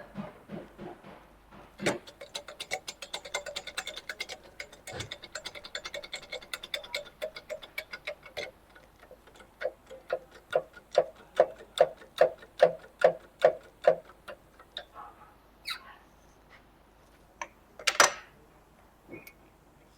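A regular series of sharp clicks, about five a second, that slows to about three louder, ringing clicks a second, followed by a few scattered knocks, the loudest one near the end.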